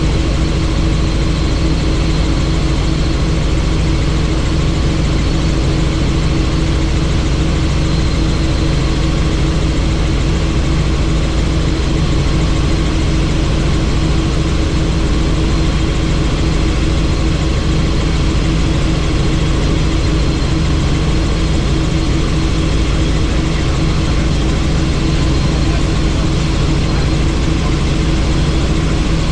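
Helicopter in flight heard from inside the cabin: steady, loud rotor and engine noise with a constant hum.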